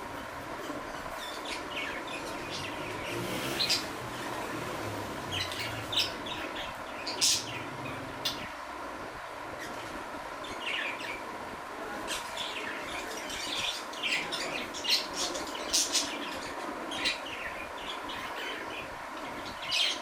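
Budgerigars chirping in short, scattered calls over a steady background hum.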